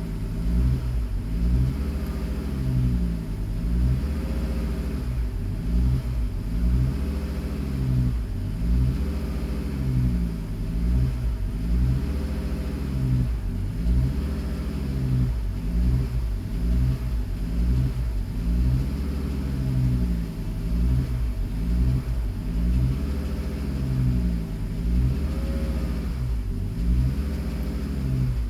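Car engine running at idle, its speed rising and falling in a regular swell about every two seconds. The engine has a fault that sets a warning code again as soon as it is restarted.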